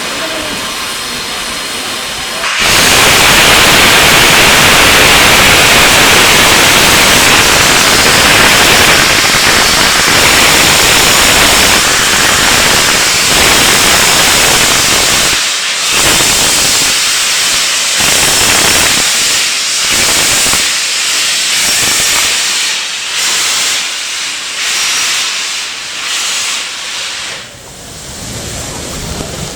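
Steam locomotive letting off steam: a loud, steady hiss that starts suddenly about two and a half seconds in, then breaks up into irregular gusts of hiss from about halfway through, easing off near the end.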